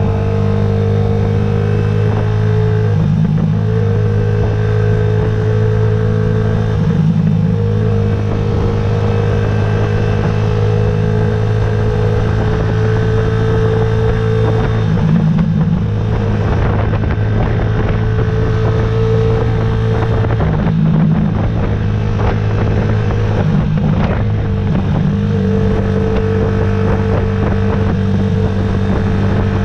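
Yamaha YZF-R125's single-cylinder four-stroke engine running on the road at steady revs, its note briefly breaking and shifting several times.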